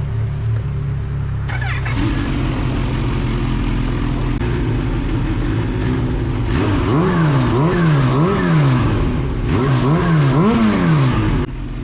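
Kawasaki Z H2's supercharged four-cylinder engine running under way. Over the last few seconds its pitch rises and falls several times in a row as the throttle is opened and closed, with the supercharger whistle on top.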